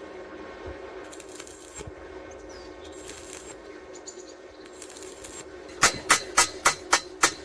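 Hammer blows on the steel scaffolding during a welded repair: a low steady hum with faint scraping, then from about six seconds in a quick, even run of sharp metallic strikes, about three a second.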